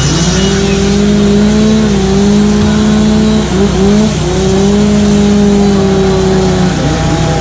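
Chainsaw running at high revs while carving wood, its pitch dipping briefly twice as the throttle eases and picks back up.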